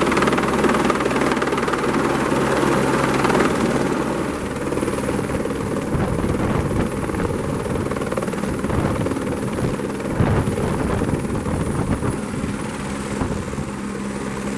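Helicopter running, its rotor and engine giving a loud steady noise, with a thin high whine that drops slightly in pitch near the end.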